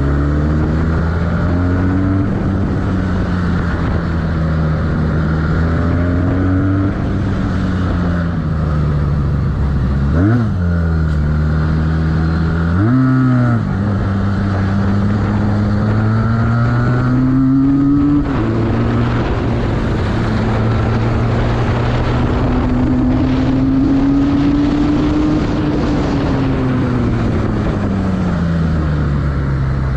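Benelli 302R two-cylinder motorcycle engine running while being ridden. The engine note rises and falls with throttle and gear changes, including two quick revs about ten and thirteen seconds in and a climb that drops suddenly at an upshift a few seconds later. A steady rush of wind and road noise runs underneath.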